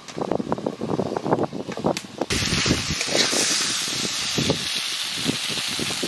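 A scatter of light clicks and taps, then, about two seconds in, small spiced chicken pieces frying in mustard oil in a kadai start up abruptly: a steady sizzle as they are stirred with a spatula, the chicken browned and close to done.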